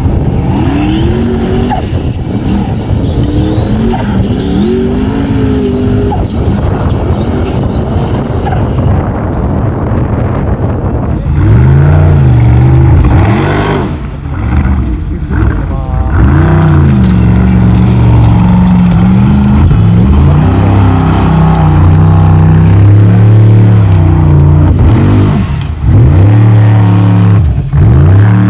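Formula Offroad race truck's engine revving hard in repeated bursts, the pitch rising and falling as the throttle is worked on the climb. It is fainter at first and becomes much louder and closer from about twelve seconds in.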